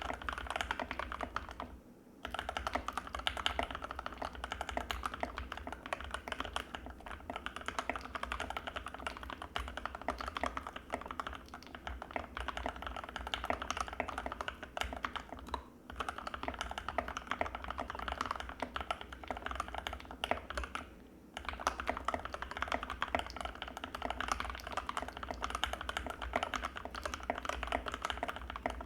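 Fast, continuous typing on an Anne Pro 2 mechanical keyboard with linear Gateron Red switches, a steady stream of creamy key strokes. It breaks off briefly about two seconds in, again around the middle, and once more a few seconds later.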